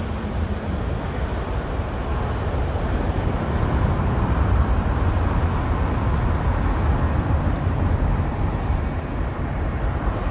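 Jet engine noise from a landing Airbus A330 airliner: a steady, deep rumble that swells a little around the middle.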